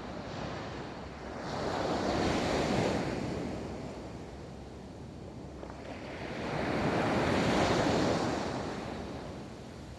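Ocean waves rolling onto a beach, surf washing in twice, swelling up and then easing off; wind blows on the microphone throughout.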